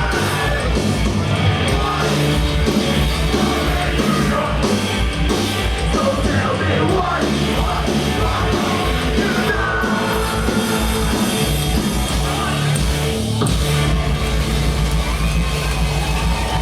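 Punk band playing live: distorted electric guitars, bass and drums, with shouted vocals.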